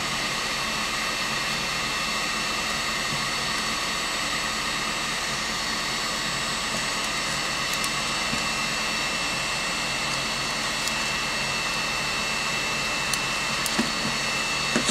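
A small electric blower motor whirring steadily at a constant pitch, with a thin high whine on top.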